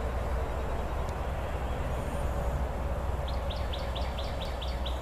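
A bird gives a quick run of about nine high, evenly spaced chirps past the middle, over a steady low outdoor rumble.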